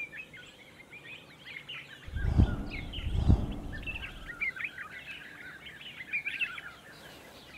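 Several birds chirping and singing in quick, varied short calls throughout. Two low thumps or rumbles stand out, about two and three seconds in, and are the loudest sounds.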